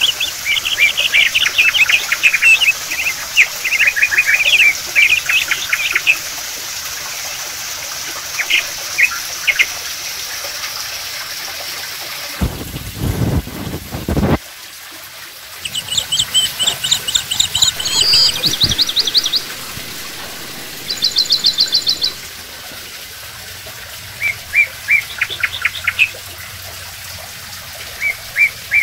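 Birds chirping and trilling in quick repeated runs, over a steady background hiss that fits water trickling down the cement artificial waterfall into its pool. A loud low rumble lasts about two seconds near the middle.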